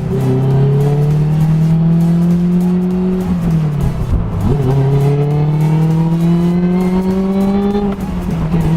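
Supercharged Toyota-built four-cylinder engine of a Lotus Elise pulling under hard acceleration, heard from inside the cabin. Its pitch climbs steadily, drops with an upshift about three seconds in, then climbs again until a second upshift near the end.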